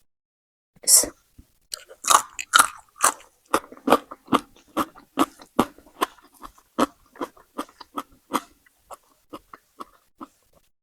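A person biting into crunchy food close to the microphone and chewing it, with a loud first crunch about a second in and then steady crunching, about two or three crunches a second, that gets softer near the end.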